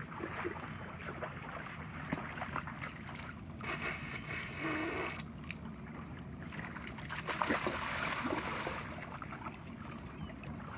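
Wind and small waves washing against a beached small sailboat and the shore, with scattered light knocks. A brief pitched squeak comes about four seconds in.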